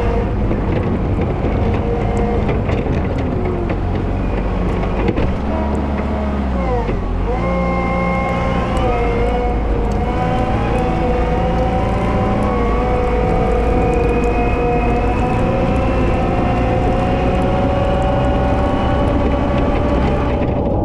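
Volvo L110 wheel loader's diesel engine working while plowing snow. Its pitch drops at the start and again about six seconds in as the revs fall, then climbs slowly and holds high for the rest.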